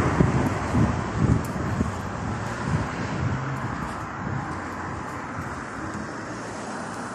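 Road traffic: the noise of a passing vehicle fading steadily as it moves away, over a background of street traffic, with some wind on the microphone.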